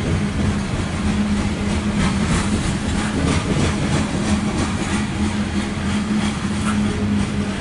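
Loaded coal train's hopper cars rolling steadily past, a continuous rumble with scattered clicks of wheels over the rails, under a constant low hum.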